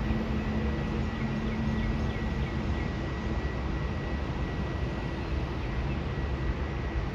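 Steady airport background noise: a low rumble with a constant thin high whine through it, and a faint lower hum that fades out about two and a half seconds in.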